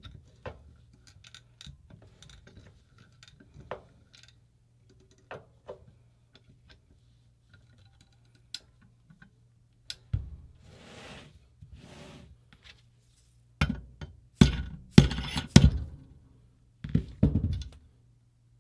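Small metal parts and tools clicking and clinking while working a stuck part out of a paintball marker body, two short scraping sounds, then a run of about six loud sharp knocks near the end as the part is forced loose.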